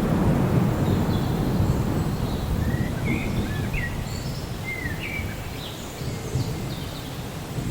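Rainforest ambience: a low rumble of distant thunder swells at the start and slowly dies away, while birds give short chirping calls that slide up and down in pitch through the middle.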